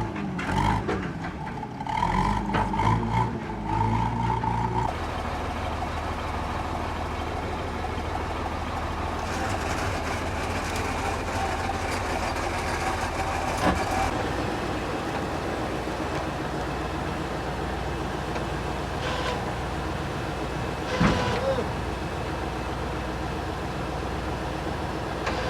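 Heavy machine's diesel engine running steadily at a low hum, its pitch shifting during the first few seconds, with a couple of sharp metallic knocks partway through.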